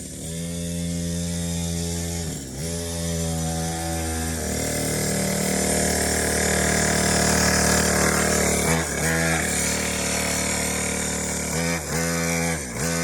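Dirt bike engine running hard at high revs, dropping in pitch briefly and picking back up several times, about two and a half seconds in, again near nine seconds, and a few times near the end, as the throttle is let off and opened again.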